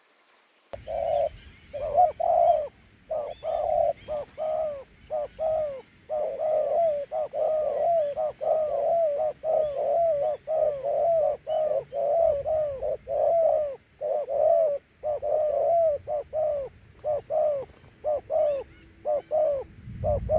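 A spotted dove giving its 'gù' courtship coo, a two-note call repeated rapidly in short runs, about two to three low coos a second, starting about a second in.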